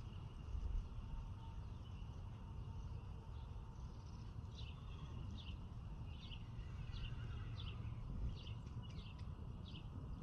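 Small birds chirping in short repeated calls, more often from about halfway through, over a steady low rumble of outdoor background noise.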